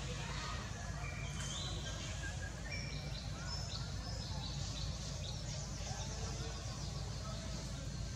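Background birds chirping and whistling in short, scattered calls at several pitches, over a steady low rumble.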